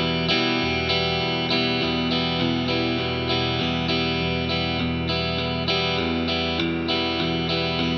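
Electric guitar strumming chords in a steady eighth-note pattern with the up strums accented, moving through a few chord changes.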